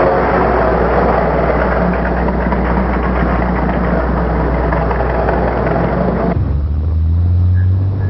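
A truck engine running, a loud steady rumble with hiss. About six seconds in it cuts off abruptly, giving way to a lower, steady hum.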